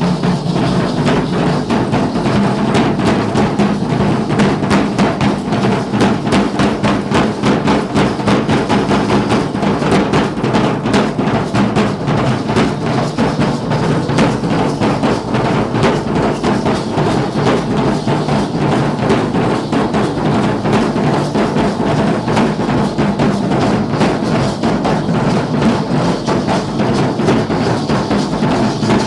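Drums of a Guadalupana matachines-style danza troupe beating a steady, unbroken rhythm.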